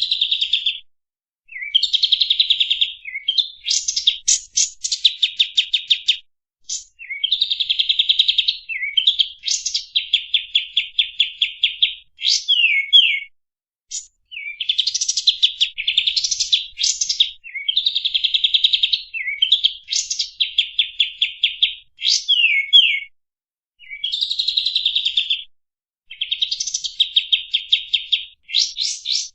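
Kapas tembak bulbul singing: a run of repeated phrases, each a fast chattering trill with quick slurred notes at its end, separated by short pauses of about a second.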